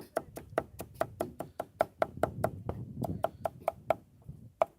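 Knife chopping food on a cutting board: a rapid, even run of knocks, about five a second, with a short pause near the end.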